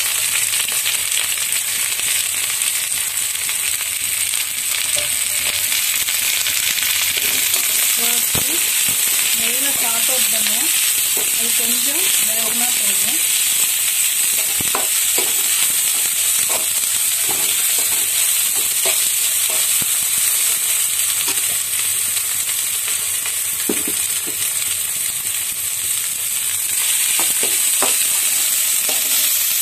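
Chopped vegetables (carrot, capsicum, peas, spring onion) stir-frying in hot oil in a metal kadai: a steady sizzle, with the spatula scraping and knocking against the pan now and then.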